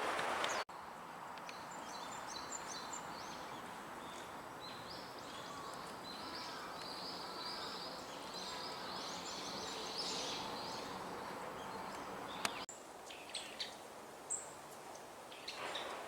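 Small songbirds twittering: a dense run of short, high chirps that cuts off about three-quarters of the way through. A few scattered thin, high calls from long-tailed tits follow.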